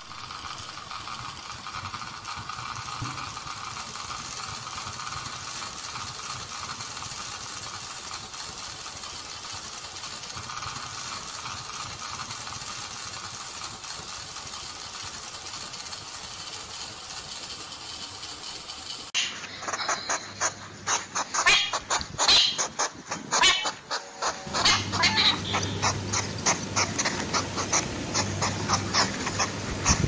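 A steady hiss for about the first two-thirds. Then a hedgehog snuffling and sniffing: a quick, irregular run of clicks, louder than the hiss, with a low grunting sound joining a few seconds later.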